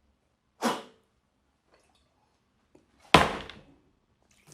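Two short, sharp knocks on a hard surface, a lighter one about half a second in and a louder one about three seconds in that dies away quickly.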